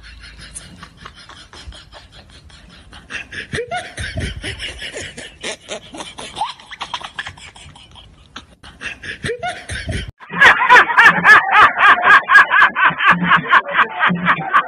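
People laughing, quiet at first, then loud laughter in quick repeated pulses from about ten seconds in.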